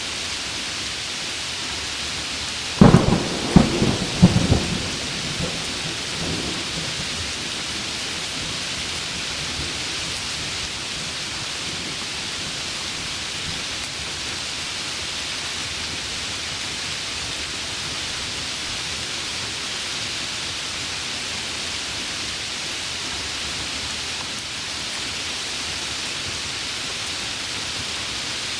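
Heavy rain falling steadily, with a close thunderclap about three seconds in: a quick series of sharp cracks that rumble away over the next few seconds.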